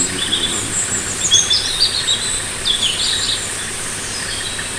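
Wild birds chirping and trilling in quick short calls over a steady high insect buzz. The bird calls thin out a little over three seconds in.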